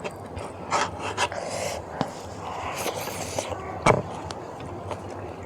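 Close-mic eating sounds: a person chewing spicy beef innards, with wet mouth clicks and smacks and two hissing breaths, one about a second in and another around three seconds in. A sharper click comes near four seconds.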